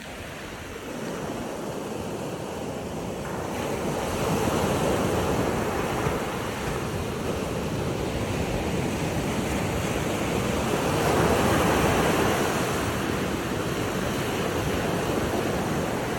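Moving water: a steady rushing wash that swells twice, about four seconds in and again around eleven to twelve seconds.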